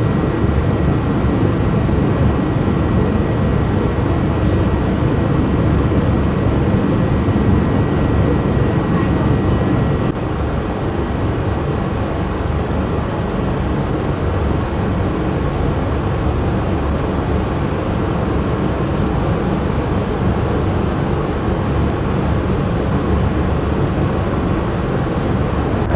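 Steady cabin noise of a Boeing 787-8 airliner in flight: an even, loud rush weighted to the low end, with a small drop in level about ten seconds in.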